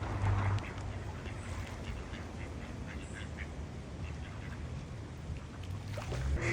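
Ducks quacking now and then in short, soft calls over a low steady background rumble, with a clearer quack near the end.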